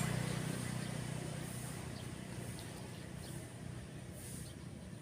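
A passing motor vehicle's low engine hum fading away over the first few seconds, over a steady wash of surf, with a few faint bird chirps in the middle.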